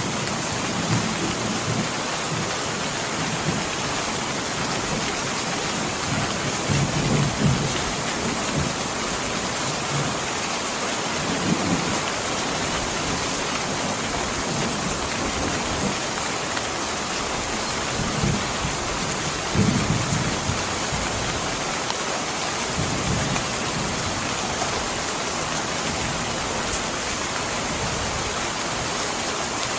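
Steady heavy rain, an even hiss, with a few brief low rumbles rising out of it.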